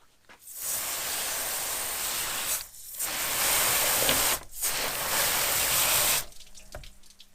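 Running water spraying in three hissing bursts, each stopping abruptly: fish being rinsed during cleaning.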